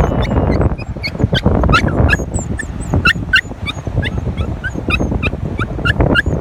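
Many short, high-pitched animal calls, yips or chirps, several a second and overlapping, over a steady low rumble of noise.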